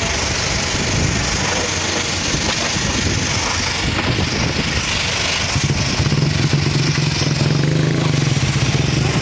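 An engine running under a steady hiss of high-pressure water spray. About halfway through, a steady low hum comes in and the sound gets slightly louder.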